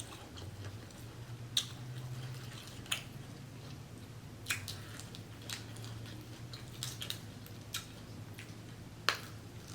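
Close-miked eating of a seafood boil: wet chewing with sharp mouth clicks and smacks about once a second. A faint low hum runs underneath.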